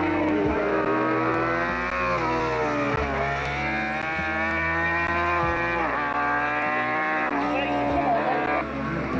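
Race car engine running hard up a hillclimb. Its pitch rises and falls several times, with sharp breaks about three, five and a half and seven seconds in.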